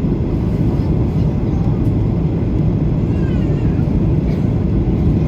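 Steady low rumble of a jet airliner's engines and rushing air, loud and unbroken.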